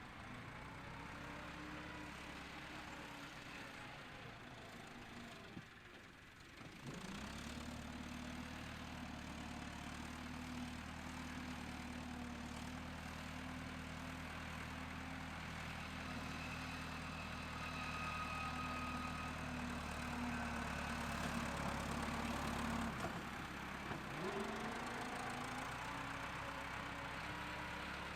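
A motor running steadily, slowing briefly and spinning back up about a quarter of the way in and again near the end.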